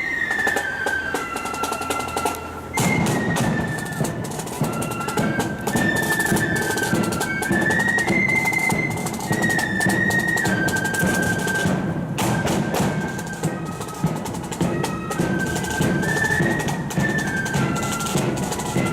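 Marching flute band playing: a melody on the flutes over snare and bass drums, with the drums coming in about three seconds in.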